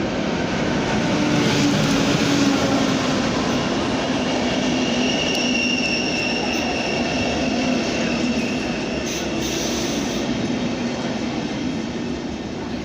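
A train running through a station: a steady rumble that swells over the first couple of seconds, with a high wheel squeal from about five seconds in for a few seconds.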